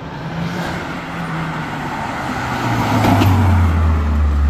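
A car engine running with a deep, low exhaust note that grows louder about two-thirds of the way in, over steady street noise.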